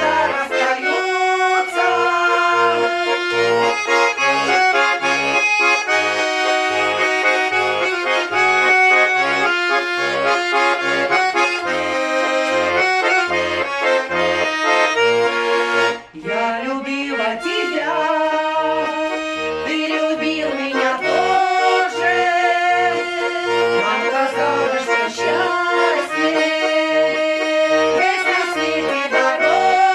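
Accordion playing a folk-style tune: sustained melody notes over a steady alternating bass-and-chord accompaniment, with a brief break about halfway through.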